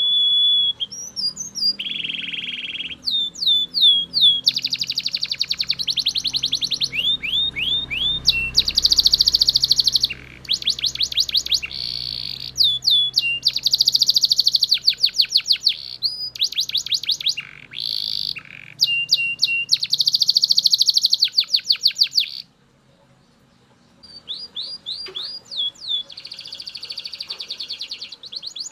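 Male Belgian canary singing loudly: long runs of fast trills and repeated down-slurred whistled notes, broken into phrases, with a pause of a second or two about three-quarters of the way through before the song starts again.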